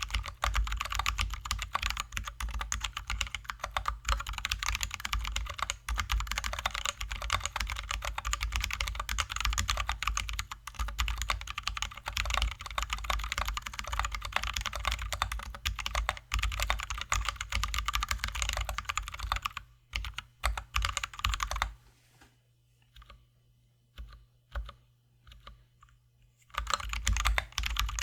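Fast, continuous typing on a Drop ALT high-profile mechanical keyboard with lubed, filmed Zealios V2 67g tactile switches and XDA keycaps. About twenty seconds in, the typing stops for a few seconds, leaving only a handful of single keystrokes, then picks up again near the end.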